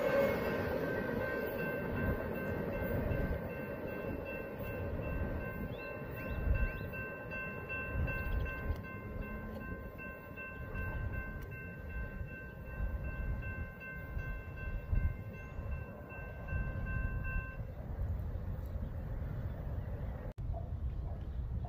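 Rumble of a Union Pacific double-stack intermodal train's last cars rolling away down the track, fading. Over it is a steady high ringing of several tones, which stops suddenly about 17 seconds in.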